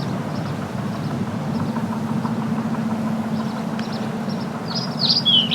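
A steady low engine-like rumble with a hum that comes in after about a second and a half, under faint high bird chirps. Near the end a bird calls loudly.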